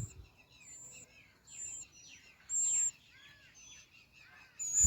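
Small birds chirping: a short high, thin note repeats about once a second over softer falling chirps. A low rumble comes near the end.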